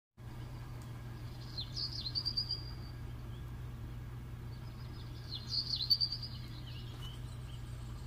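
A small bird chirping in two short twittering phrases a few seconds apart, over a steady low hum.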